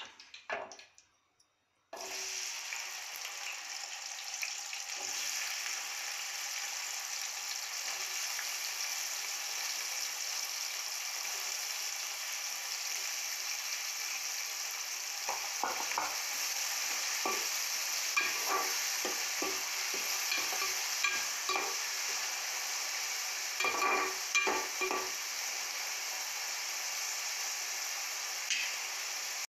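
Chopped onions, tomatoes and green chillies sizzling in hot oil in an aluminium pan. The steady sizzle starts suddenly about two seconds in, and from about halfway scattered pops and clicks join it.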